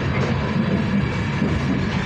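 Passenger train running along the line, heard from inside the carriage as a steady low rumble of wheels on rails.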